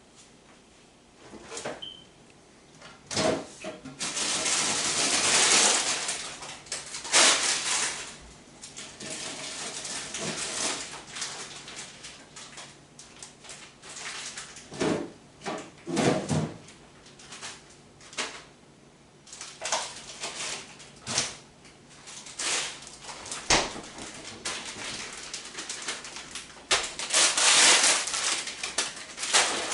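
Cooking and kitchen handling sounds: scattered knocks and clatters of cookware and utensils, with two longer spells of loud hiss, about four seconds in and again near the end.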